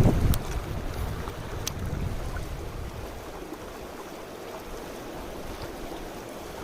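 Mountain stream water rushing steadily. For the first three seconds a low rumble of wind buffeting the microphone sits under it, then eases off.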